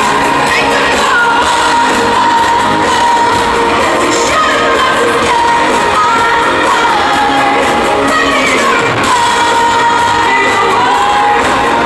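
Live pop song with a woman's lead vocal over the band, heard through an arena's sound system.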